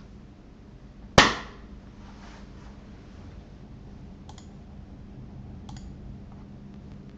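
Asus GTX 980 Ti Strix graphics card under benchmark load giving off electrical coil noise: a faint steady hum, one sharp loud click about a second in, and two faint high ticks later on, the crackling and popping of a card with bad coil whine.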